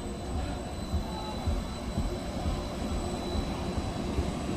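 Train running, a steady low rumble with irregular low thumps and a faint steady high-pitched whine.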